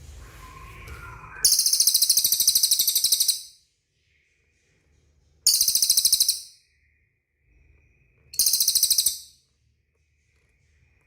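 A cililin bird calling: three loud, very high, rapid trills, the first about two seconds long and the next two about a second each.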